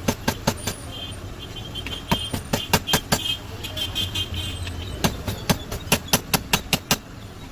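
Bursts of rapid sharp taps, about five a second, from tool work on a table fan's parts during repair, over a steady background of street traffic.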